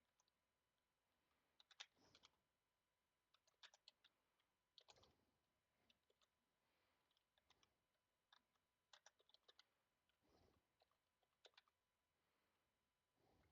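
Faint typing on a computer keyboard: short key clicks in small irregular runs, otherwise near silence.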